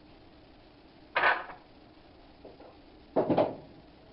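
Hard objects knocking and clattering as they are handled and set down. There is one sharp knock about a second in, then a quick double knock about three seconds in.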